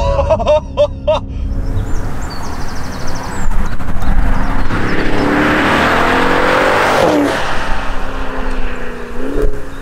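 Twin-turbo V8 car accelerating hard, its engine note climbing in pitch and growing louder. About seven seconds in the note breaks and drops at a gear change, then carries on lower and slowly falling as the car goes by.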